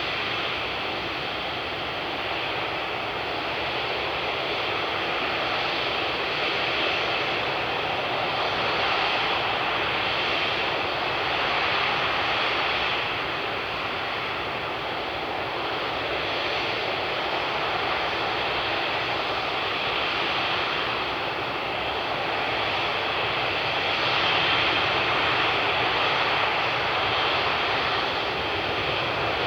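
Airbus A380 jet engines running as a steady, even rush of noise that swells and eases slowly and grows a little louder near the end.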